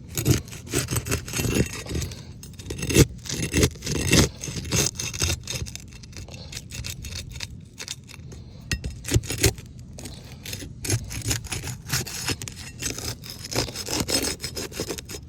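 A roof shingle being worked open and pulled apart: irregular scraping, rubbing and crackling strokes, louder and denser in the first few seconds.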